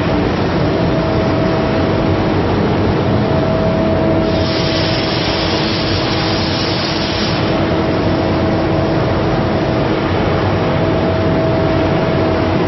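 CNC cutting machine cutting steel plate: a loud, steady hissing roar of the cutting torch over a steady machine hum, with a sharper, brighter hiss for about three seconds in the middle.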